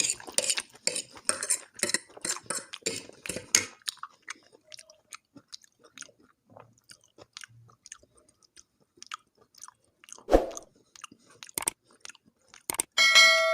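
Close-miked chewing of food, dense for about four seconds, then only sparse small mouth clicks. A single thump comes about ten seconds in, and a bright ringing chime with several pitches starts just before the end.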